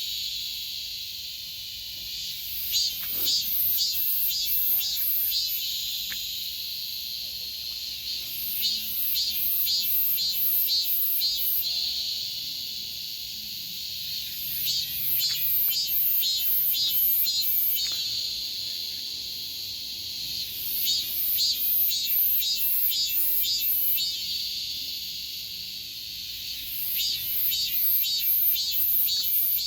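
Cicadas singing: bouts of rapid pulsed song, each lasting three to four seconds and coming about every six seconds, over a steady high chorus of other cicadas.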